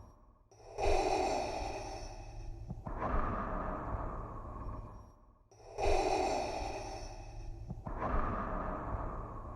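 Darth Vader's mechanical respirator breathing sound effect: two slow, even breath cycles, each an airy hiss in then out through the mask's regulator, about 2.5 s per half, with a brief pause before each new cycle.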